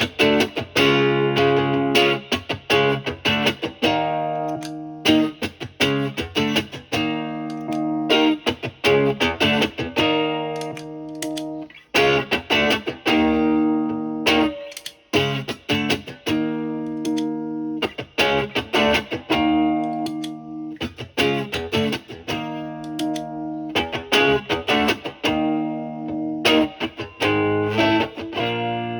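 Electric guitar, a single-coil Stratocaster played through a Marshall amp's clean channel and a mild overdrive pedal, playing a repeating chord phrase. The phrase comes back about every two seconds, with lightly driven, crunchy tone.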